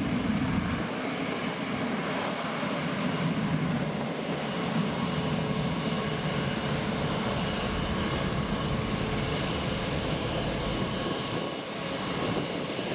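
Jet airliner engines running with a steady roar.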